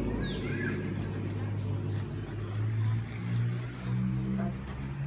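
A bird chirping over and over, each chirp a quick high note falling in pitch, about two a second, over a low steady rumble.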